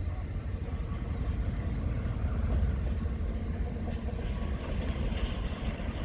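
Freight train's diesel locomotive running with a steady low rumble.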